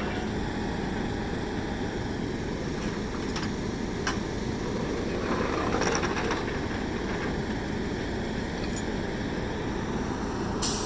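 Steady low rumble of road traffic, with a few faint clicks, a brief louder noise around five to six seconds in, and a sharp click near the end.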